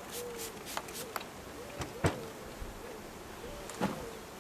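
Honeybees buzzing around an open hive, a thin wavering hum that comes and goes. Quick scraping or brushing strokes, about three a second, stop about a second in. A sharp knock about two seconds in is the loudest sound, and a second one comes near the end.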